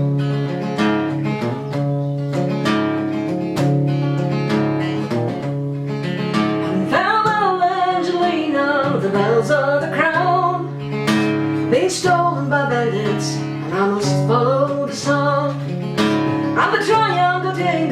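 Acoustic guitar being strummed, with a singing voice carrying a melody over it from about seven seconds in.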